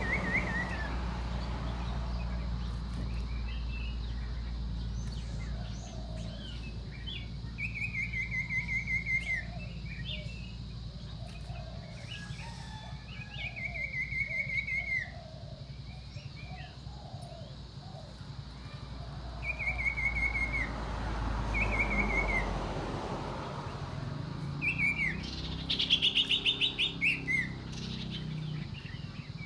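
Common iora calling: drawn-out trilled whistles, each about a second long, repeated every few seconds, with a louder rapid chattering run near the end. A steady low rumble lies underneath for most of the time.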